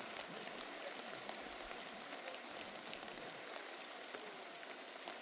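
Steady heavy rain falling, a constant hiss with scattered individual drop ticks.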